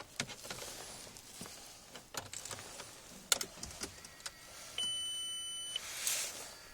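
Scattered clicks and key rattles inside a Volkswagen Passat B5.5 as the car is readied for a cold start. About five seconds in, a steady electronic beep sounds for about a second, followed by a brief rush of hiss.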